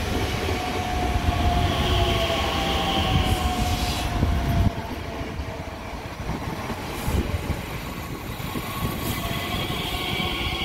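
Electric multiple unit passing at close range: wheels rumbling on the rails, with a motor whine that slowly falls in pitch. The rumble drops off sharply about halfway through.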